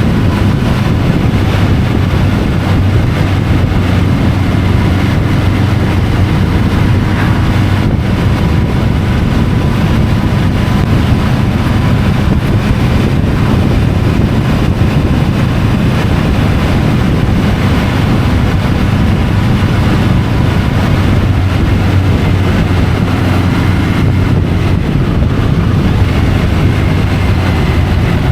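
Triumph Tiger 850 Sport's three-cylinder engine running at a steady cruise, with heavy wind noise on the bike-mounted camera's microphone. The engine hum and rushing wind stay level with no clear revving.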